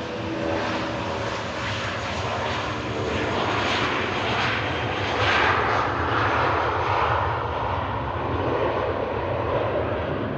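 Jet airliner passing close by, its engine roar swelling to a peak about five to six seconds in and then easing. A steady engine whine at the start fades out within the first few seconds.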